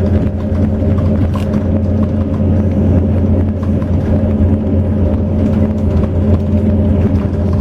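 A bus engine running steadily under road rumble, with faint scattered rattles.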